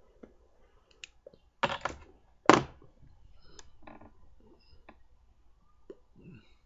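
Scattered close clicks and handling noises, with two short, loud hissing bursts about two seconds in.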